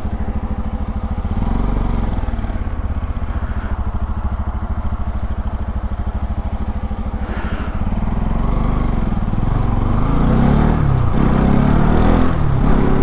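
Motorcycle engine idling with a fast, even pulse, then pulling away about eight seconds in, the engine note rising and changing as it accelerates.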